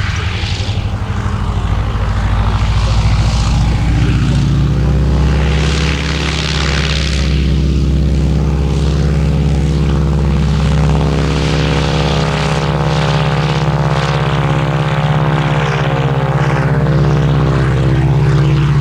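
T6 Harvard's nine-cylinder Pratt & Whitney Wasp radial engine and propeller at takeoff power, heard from inside the cockpit. The sound swells over the first few seconds, then holds as a loud, steady drone with a slow beating in it.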